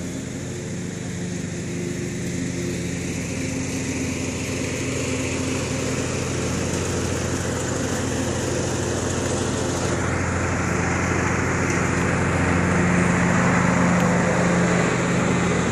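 1967 Ford Galaxie 500's engine idling steadily, an even low hum that grows gradually louder, with more hiss coming in about ten seconds in.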